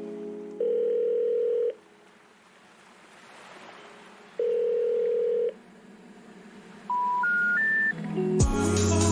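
Telephone-style electronic tones: two steady one-second tones a few seconds apart, then three short beeps stepping up in pitch, like the signal that comes before a 'number not in service' recording. Music starts again near the end.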